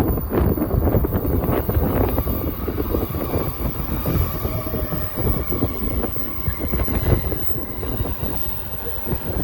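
JR electric commuter train running along the platform with a steady rumble, while strong wind buffets the microphone.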